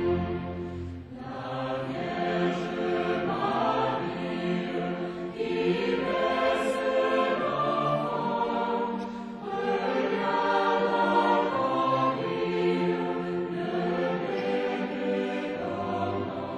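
Choir singing with string orchestra accompaniment, in long held phrases that break briefly every few seconds.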